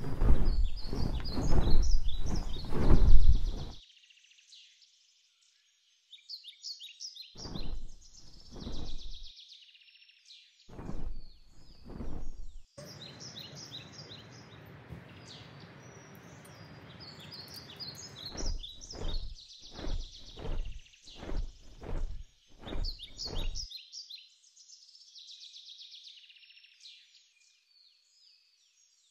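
Small birds chirping again and again in short high calls. Loud low rumbling noise on the microphone drowns them out in the first few seconds, returns in several shorter stretches later, and dies away in the last few seconds, leaving the chirps alone.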